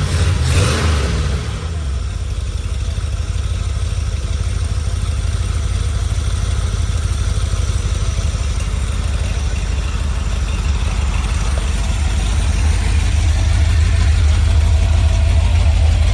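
Carbureted 4.0-litre Rover V8 running on an engine stand: a short rise in revs falls back within the first second or two, then it idles steadily.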